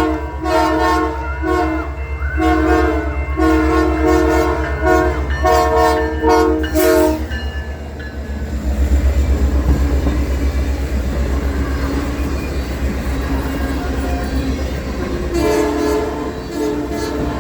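Diesel locomotive sounding its multi-tone air horn in a string of blasts over a steady engine rumble. From about seven seconds the train passes close, with a loud rumble and rolling rush of wheels, and the horn sounds again near the end.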